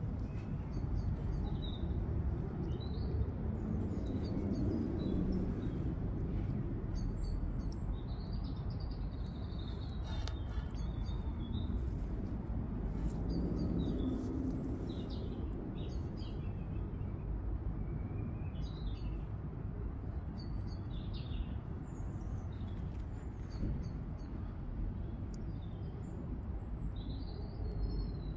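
Birds chirping, with many short high calls and a few sweeping notes scattered throughout, over a steady low background rumble.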